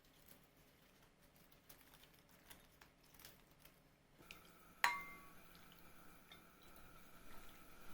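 Quiet kitchen handling sounds: light clicks and taps, then one sharp, ringing clink of dishware a little before five seconds in. A faint steady tone runs under the second half.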